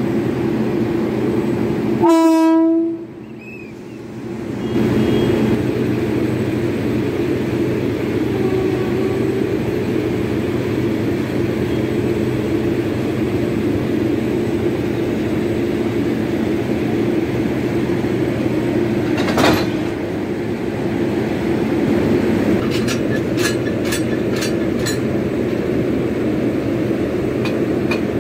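Model train running on its track with a steady motor hum. A short horn blast sounds about two seconds in, and a few sharp clicks come near the end.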